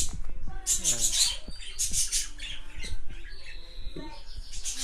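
A pet bird squawking harshly in several short bursts, agitated and defensive with a hand held close to it.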